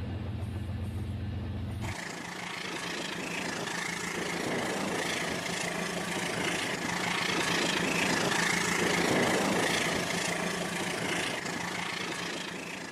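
RailKing model train running: a steady mechanical rumble and hiss that starts about two seconds in and swells slightly, over a low electrical hum at the start.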